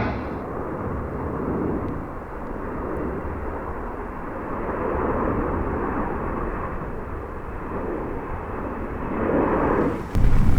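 Military transport aircraft engines running, a steady drone that swells briefly near the end. About ten seconds in it breaks off suddenly and a louder, different sound takes over.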